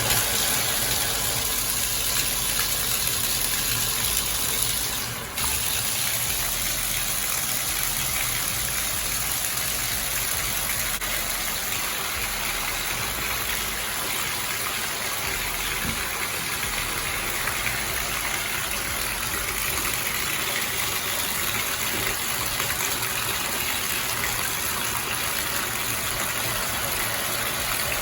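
Water running hard and steadily from a tap or shower head, a constant gushing rush with a brief dip about five seconds in.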